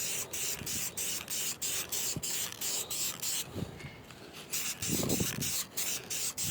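Aerosol can of clear coat spraying in short, rapid hisses, about three or four a second, with a brief pause near the middle.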